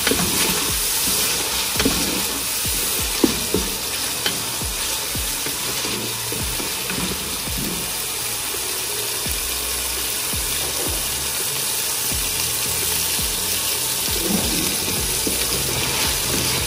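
Chicken pieces and chopped spring onion sizzling in hot oil in a wok, stirred with a wooden spatula that knocks against the pan a few times in the first few seconds.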